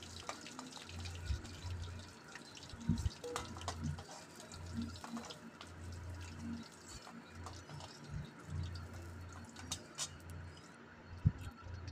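Potato wedges sizzling softly in hot oil in a kadai, with scattered clicks and taps of a spatula against the pan as they are turned and lifted out.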